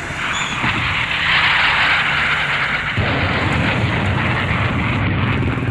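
Train passing close by: a loud, steady rumble and rush of noise, whose low part shifts about halfway through.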